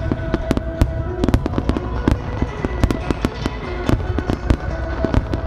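Aerial firework shells bursting in a rapid string of sharp bangs and crackles, several a second. Music with long held tones plays under them.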